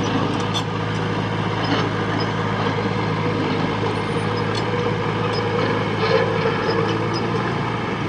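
Diesel engine of heavy earthmoving machinery running steadily, with scattered clanks and knocks over it.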